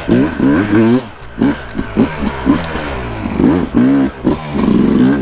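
Dirt bike engine revving up and down in quick succession as the throttle is worked over the jumps, then held at a steady higher rev near the end.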